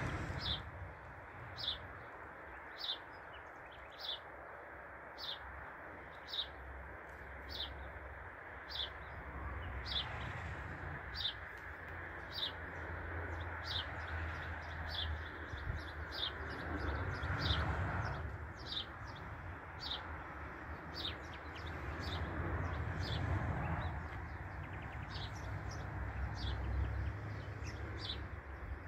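A bird repeating one short, high, falling chirp about once every second, steadily throughout. Under it is a steady outdoor hiss and low rumble that swells briefly about two-thirds of the way through.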